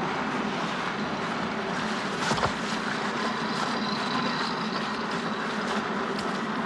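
Steady rumble of a moving train, with a single sharp knock about two and a half seconds in.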